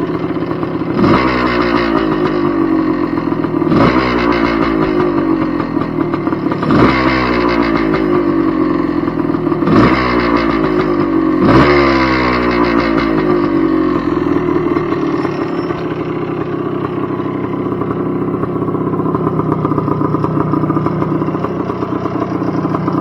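1978 Yamaha IT250's single-cylinder two-stroke engine running just after a cold start, its throttle blipped about five times, each rev jumping up sharply and falling back. After that it settles into steadier running.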